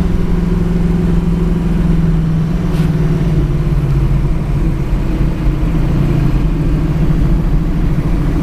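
Chevrolet Nova hot rod's engine running steadily as the car drives along; its note drops a little about two to three seconds in.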